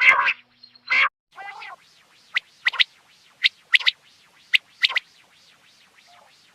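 Common quail calling: a few harsh, raspy notes, then three quick three-note phrases of sharp, high notes, each a single note followed by a fast double.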